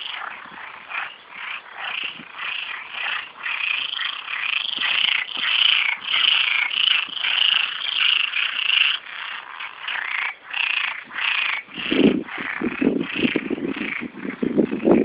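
A chorus of many frogs croaking, dense overlapping rapid calls. About three-quarters of the way through, a louder, deeper croaking joins in.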